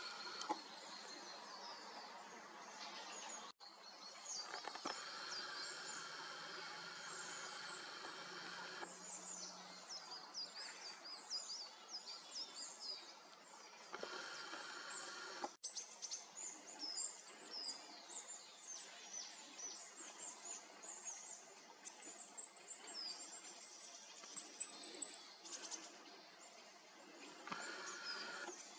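Small woodland tits calling: many short, high chirps, with one louder high call about 24 seconds in, over a faint background hiss.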